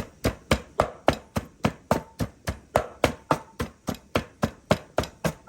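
Pestle pounding seasoning in a mortar with steady, even strokes, about three to four a second.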